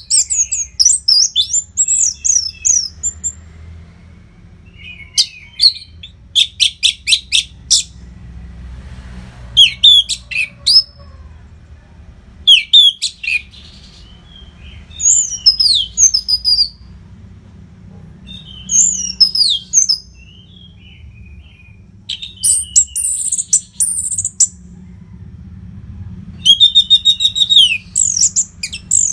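Orange-headed thrush singing loudly in short, separate phrases a second or two apart. The phrases are quick whistled notes gliding up and down, with some fast runs of rapidly repeated notes.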